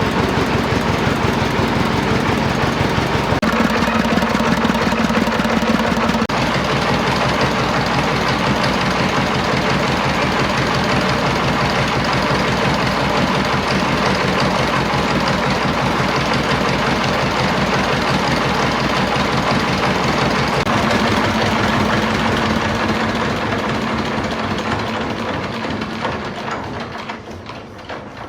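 An engine running steadily with a fast, even firing beat, its pitch shifting slightly a few times. It dies away over the last few seconds.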